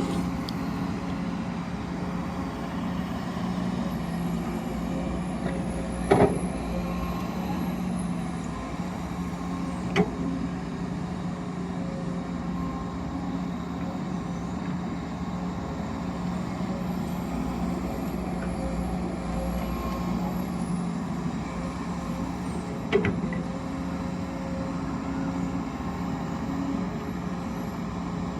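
Steady engine drone of an excavator and haul truck working, holding one even pitch, with three sharp knocks spread through it.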